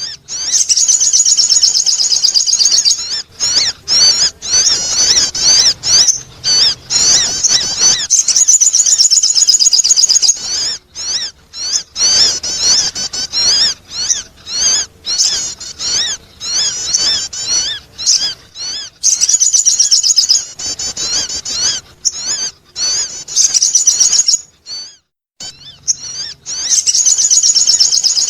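Sogon bird song: rapid, high-pitched twittering and warbling trills in long runs broken by brief pauses, the kind of call played to lure wild birds in.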